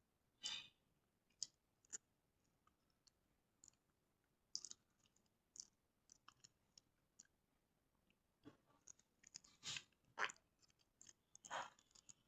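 Faint, irregular clicks and short scraping or rustling sounds, coming more often in the second half, over near silence.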